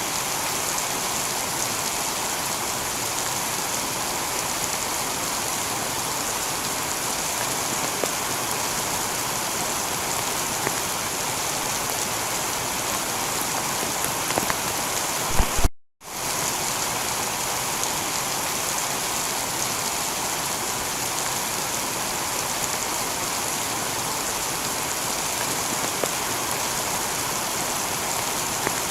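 Steady heavy rain falling on a tiled roof, with scattered drops ticking through it. About halfway through there are a few louder knocks, then the sound cuts out for a moment and fades back in.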